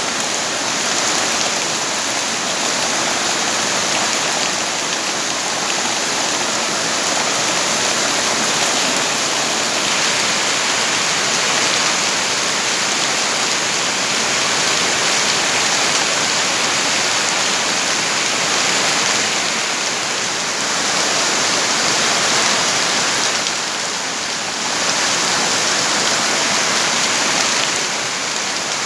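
Steady heavy rain falling, a dense even hiss of drops that swells slightly and dips briefly near the end.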